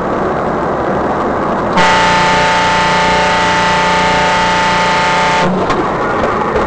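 Vehicle horn held in one long steady blast of nearly four seconds, starting about two seconds in, over loud road and engine noise.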